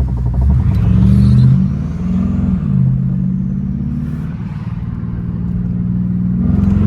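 BMW 550i's twin-turbo V8, running catless downpipes and a straight-piped exhaust, under hard acceleration. The engine note climbs for the first second and a half, drops at a gear change about two and a half seconds in, holds steadier, then climbs again near the end.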